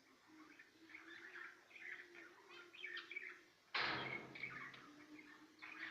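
Small cage birds chirping and twittering in many quick, overlapping calls. About four seconds in, a sudden loud rustling knock lasts about a second.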